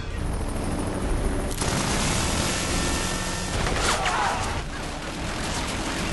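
Dense rapid gunfire and booms over a low rumble, part of a film's battle soundtrack, growing fuller about a second and a half in.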